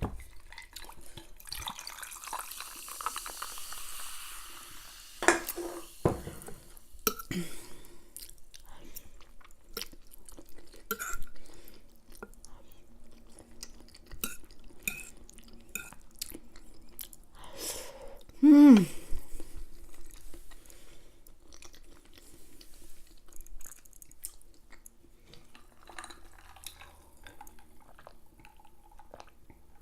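Close-up eating sounds: chewing a mouthful of pork chop, baked beans and rice, with small clicks of cutlery on the plate. About two-thirds through comes one short pitched sound, falling in pitch, the loudest thing in the stretch.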